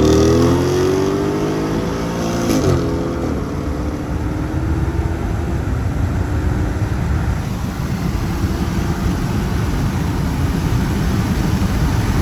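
A tuned turbocharged BMW's engine accelerating hard, its pitch climbing. About two and a half seconds in it shifts up and climbs again. After that the engine gives way to a steady rush of road and wind noise at speed.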